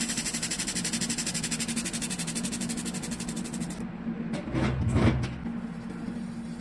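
Glass laser drilling machine running: a rapid, even ticking of more than ten pulses a second as the laser works into the glass, over a steady machine hum. The ticking stops about four seconds in, and a few louder knocks follow.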